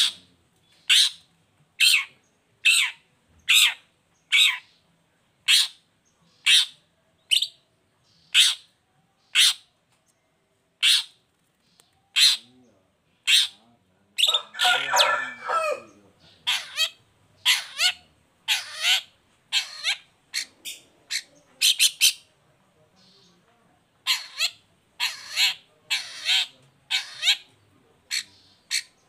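Long-tailed shrike (cendet) giving harsh, rasping calls, one about every second, breaking into a denser burst of chattering notes about halfway through, then more quick calls toward the end.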